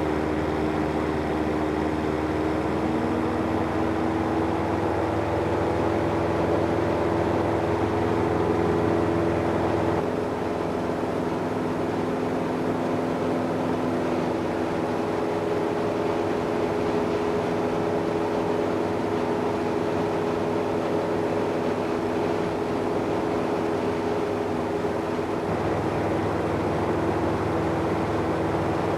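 Cessna 172N's four-cylinder Lycoming O-320 piston engine and propeller droning steadily in flight, heard from the cockpit. The drone shifts slightly about ten seconds in and again near the end.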